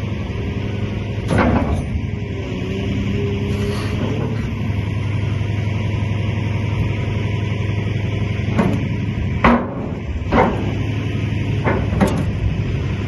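Excavator running at a steady drone, with a brief hydraulic whine and several sharp metallic clanks as the bucket and thumb grab and handle material, most of them in the second half.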